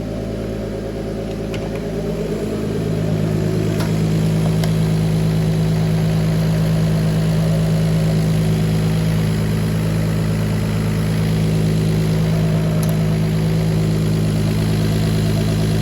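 Turbocharged BMW M50 inline-six idling while it warms up. About two and a half seconds in the idle picks up slightly and gets louder, then holds steady.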